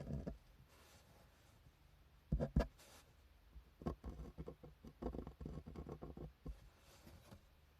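Desk sounds of hand-drawing on paper: a knock at the start and two louder knocks a little over two seconds in, as of tools set down on the desk, then about two and a half seconds of short, quick drawing strokes on paper.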